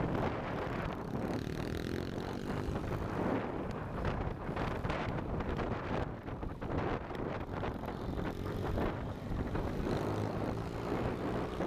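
KTM Duke 390's single-cylinder engine running steadily while riding, with wind rushing over the microphone.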